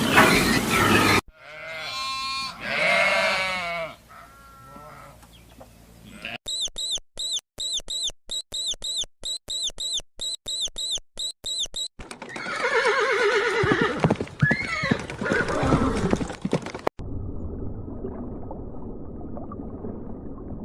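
A run of different animal calls, cut one after another. It goes from pitched calls to a fast series of short high chirps, about two a second, then more pitched calls, and ends in a low steady hiss.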